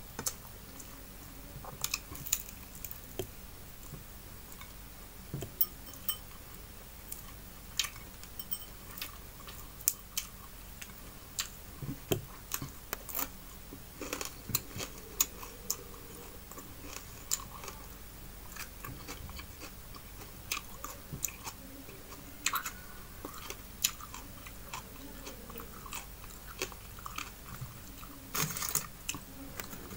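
Close-up eating sounds: chewing of fried fish and raw onion-and-tomato salad, with irregular wet mouth clicks and smacks throughout and a short cluster of crackles near the end.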